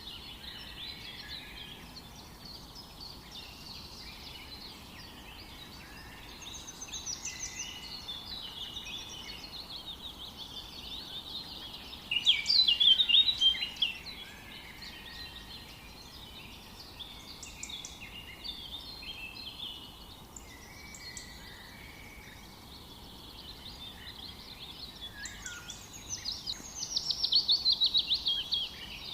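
A chorus of several songbirds chirping and trilling over a faint steady hiss, with a loud, rapid trill about twelve seconds in and another near the end.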